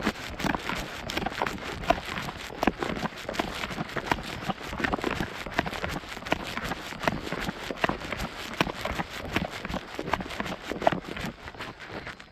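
Running footsteps on a mountain trail: quick, uneven crunching and knocking steps that keep on without a break.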